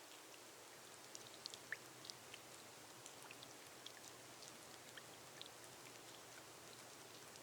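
Faint, gentle rain on a glass roof: a soft steady hiss with scattered single drops ticking.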